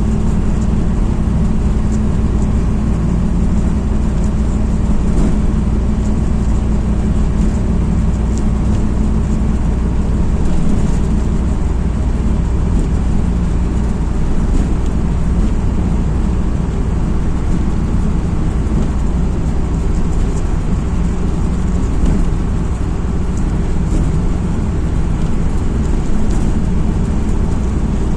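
MAZ-206 city bus's diesel engine running steadily, with road noise and faint clicks, heard from inside the passenger cabin while the bus is under way.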